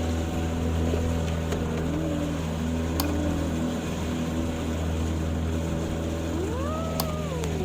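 An engine running steadily at an even pitch, with a few faint clicks. Near the end, a brief tone rises and then falls.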